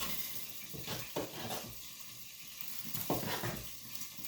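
Food sizzling in a frying pan, a steady hiss, with a few light knocks of a utensil or pan scattered through it.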